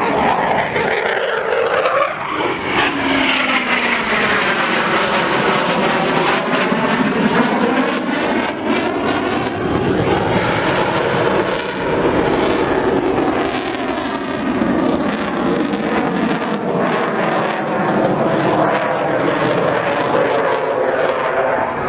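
Eurofighter Typhoon jet flying a display, its twin jet engines loud throughout, with a rise-and-fall swirl in the sound as it passes and turns.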